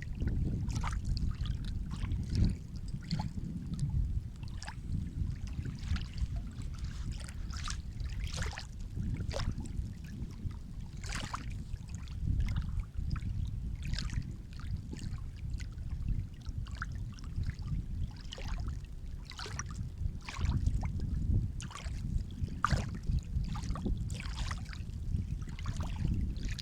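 Sea waves washing on the shore: a steady low rumble of surf with many short splashes and trickles over it, swelling louder a few times.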